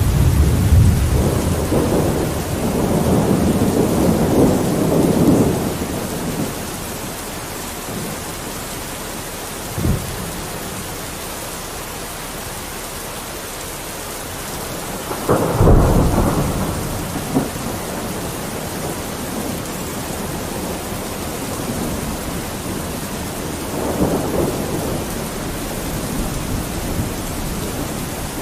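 Steady rain on a window with thunder: low rolling rumbles over the first six seconds, a short low thud about ten seconds in, a louder clap rumbling out about halfway through, and a softer roll near the end.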